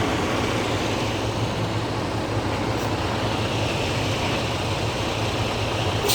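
Semi tractor-trailer's diesel engine running steadily at low speed during a slow backing and pull-up manoeuvre.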